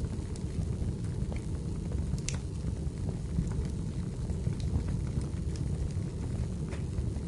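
Wood fire burning in a fireplace: a steady low rumble of flames with scattered sharp crackles and pops from the burning firewood.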